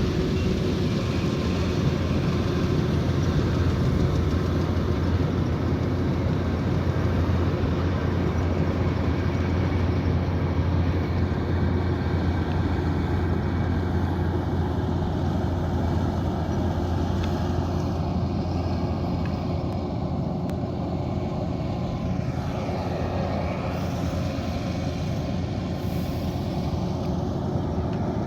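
Kubota DC108X combine harvester running steadily while harvesting rice: a constant low engine drone with the broad rushing noise of its working machinery, easing off slightly in level past the middle.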